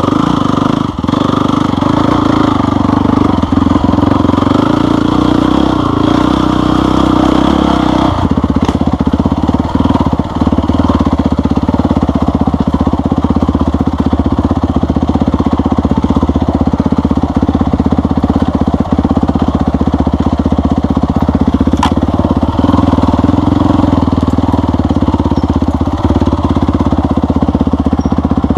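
Off-road vehicle engine running continuously on a trail. Its note shifts about eight seconds in, as with a change of throttle or gear.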